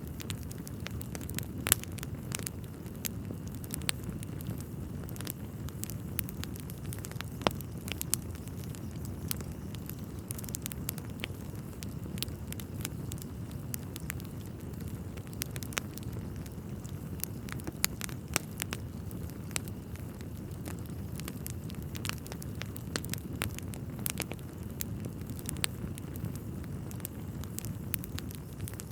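Wood fire burning in a fireplace: a steady low rumble of flames with irregular crackles and occasional louder pops of burning logs.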